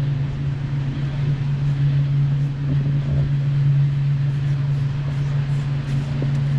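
A steady, low mechanical drone that holds one pitch throughout, with a few faint ticks over it.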